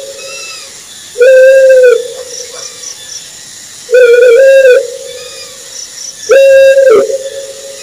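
Owl hooting: three loud, pitched hoots, each under a second long, about two and a half seconds apart, the third slightly wavering. Faint high chirping pips come between the hoots.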